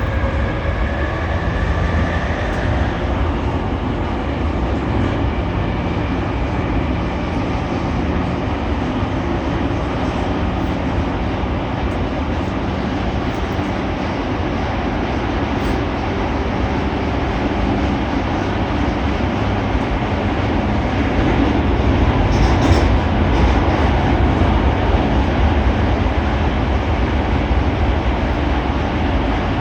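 Running noise heard inside a JR East E231 series 800-number commuter car travelling through a subway tunnel: a steady low rumble of wheels on rail and traction motors. In the first two to three seconds a whine climbs in pitch as the train accelerates, and the rumble grows louder for a few seconds about three quarters of the way through.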